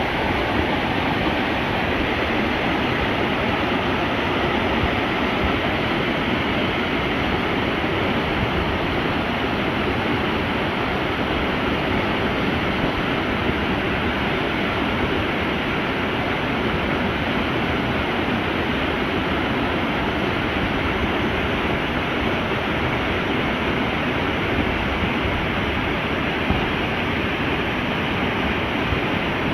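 Valley stream water rushing steadily.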